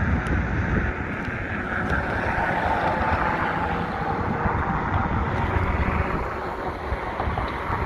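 Wind buffeting the microphone in gusts, over a steady rushing roar.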